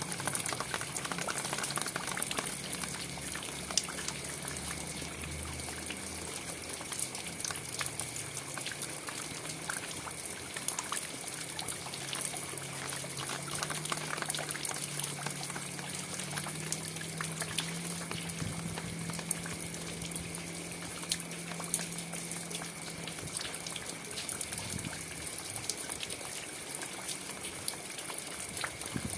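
Steady rain falling, a dense haze of many small drop impacts. A faint low hum wavers underneath through the middle.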